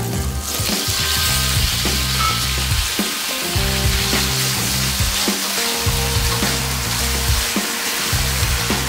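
Diced raw potato sizzling in hot oil in a nonstick pan. The sizzle surges as the cubes go in at the start, then holds steady while they are stirred with a wooden spatula, over background music.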